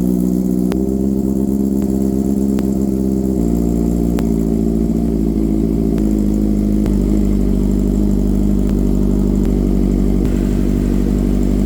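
Honda CB650R's inline-four engine idling steadily just after a cold start, its note shifting slightly about three and seven seconds in.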